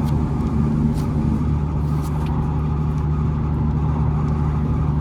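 Hitachi Zaxis 200 LC excavator's diesel engine running steadily at raised throttle, heard from inside the cab, with the cab heater blower running on full.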